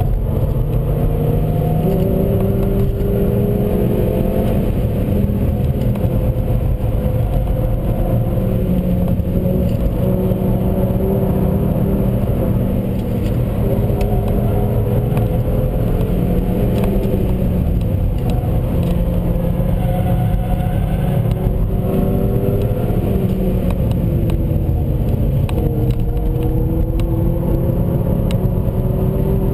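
Seat Leon Cupra 1P's 2.0 turbocharged four-cylinder engine under hard acceleration, heard from inside the car: the engine note climbs through the revs and drops back at each gear change several times, over steady road and tyre noise.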